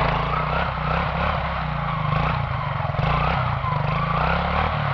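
Quad (ATV) engine revving up and down under throttle as the rider pulls a wheelie, the engine pitch rising and falling repeatedly.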